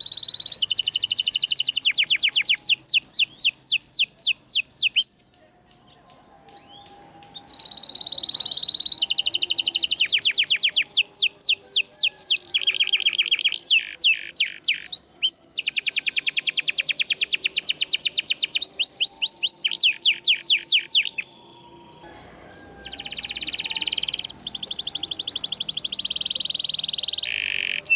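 Domestic canary singing a long song of rapid trills and rolls, with clear held high whistled notes between phrases. The song pauses briefly twice and turns buzzier towards the end.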